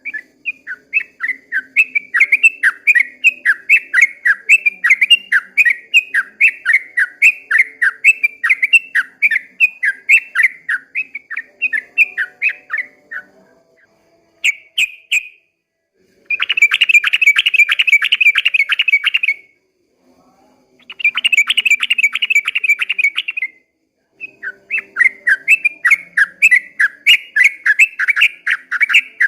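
Sooty-headed bulbul (trucukan) singing a long series of rapid repeated chirps, about three a second, broken in the middle by two dense, fast trills of about three seconds each, then resuming the chirp series near the end.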